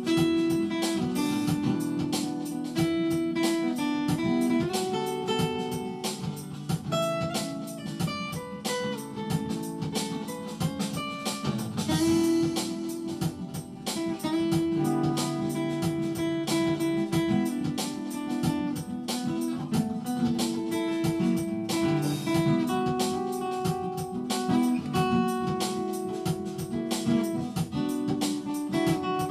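Instrumental music: a guitar break with plucked and strummed guitar over a steady accompaniment, no singing.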